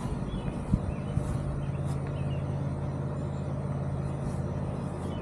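Lawn mower engine running steadily in the background, a constant low hum.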